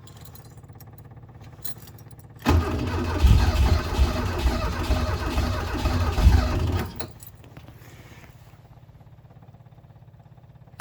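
Birkin Seven's engine running low and steady, then revved loudly and unevenly for about four and a half seconds from about two and a half seconds in before dropping back to a steady low run.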